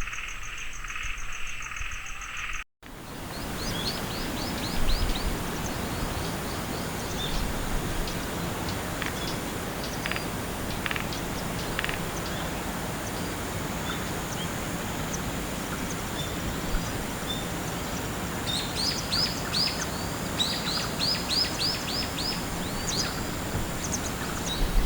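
Outdoor farmland ambience: steady background noise, with a small bird giving quick runs of high, down-slurred chirps, a short run a few seconds in and a longer one near the end. The opening seconds, before a cut, hold an insect's fast pulsing trill.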